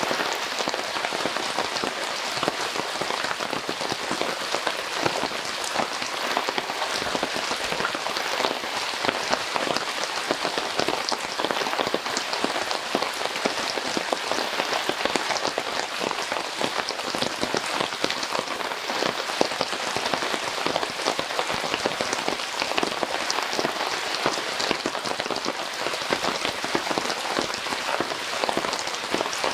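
Heavy rain falling steadily: a dense, even hiss of countless drops hitting a surface, with individual drop hits showing through.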